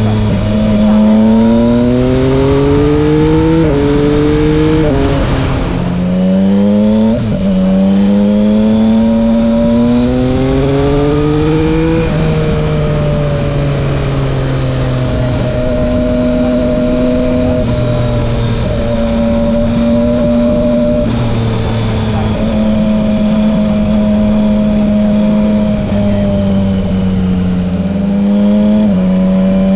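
Yamaha Tracer 900 GT's three-cylinder engine through an SC-Project exhaust, accelerating hard through the gears with quick upshifts for the first twelve seconds or so, then running at a steady cruise with small throttle changes. There is another quick shift near the end.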